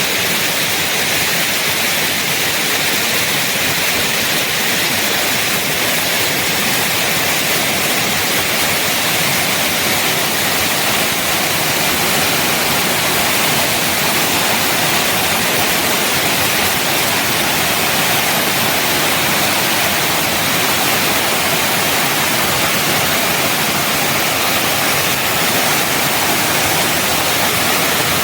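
Rainforest waterfall: a steady, even rush of falling water that does not change.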